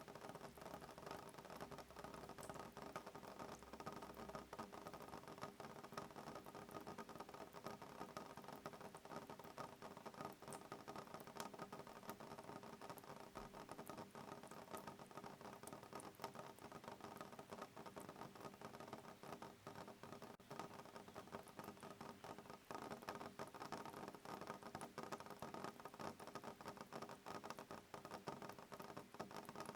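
Soft rain falling on a window pane: a steady, quiet stream of small drop ticks.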